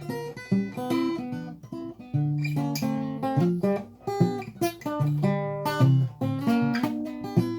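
Acoustic guitar playing an instrumental break: a run of picked notes mixed with strummed chords, with no singing.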